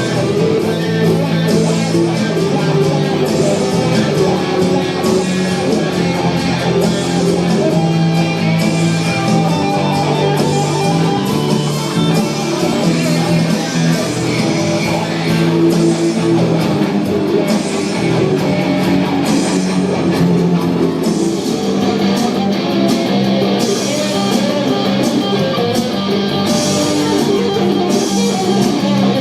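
Live band playing a rock-style number: guitars over drums, with cymbal strokes at a steady beat.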